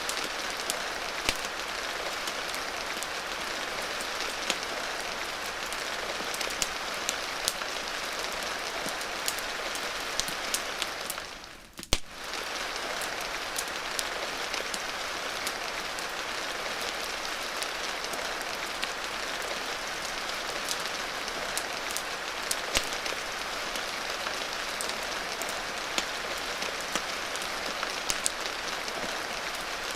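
Steady rain hiss mixed with a wood fire's scattered sharp crackles and pops. About twelve seconds in, the sound briefly dips away, and a single sharp click comes as it fades back in.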